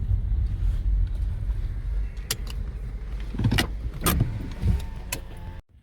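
Car cabin noise: a low engine and road rumble, with several sharp clicks and clunks in the second half. The sound cuts off abruptly near the end.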